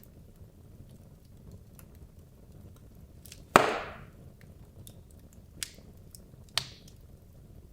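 Wood logs burning in a fireplace: a steady low rumble of flame with small crackles, one loud sharp pop about halfway through and two smaller pops a few seconds later.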